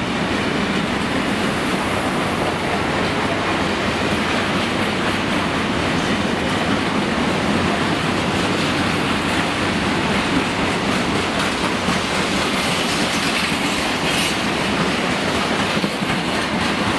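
A long rake of freight wagons passing at speed through a station, a steady rumble of steel wheels on the rails.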